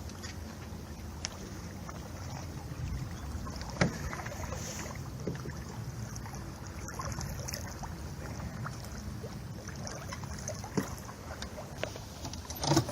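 Water rushing and lapping along the hull of a 25-foot sailboat under sail, with low wind rumble on the microphone. A few sharp knocks from the boat's fittings stand out, one about four seconds in and the loudest near the end.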